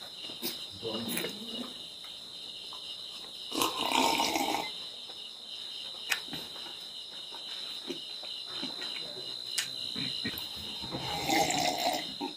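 Close-up chewing and mouth sounds of a man eating with his mouth full, with scattered sharp clicks, over a steady high chirring of crickets. A louder burst comes about four seconds in and another near the end, as he drinks from a glass mug.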